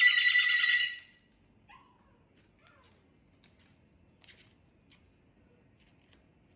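Telephone-style ringing tone, steady and warbling, that cuts off about a second in. It is followed by a few faint ticks and short chirps.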